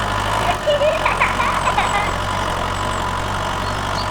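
A toy tractor's engine running with a steady low hum that shifts in pitch about half a second in. A few short squeaky chirps sound during the first two seconds.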